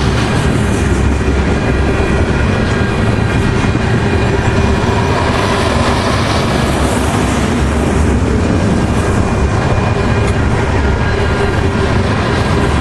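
Canadian Pacific train rolling past, a loud, steady rumble of wheels on rail.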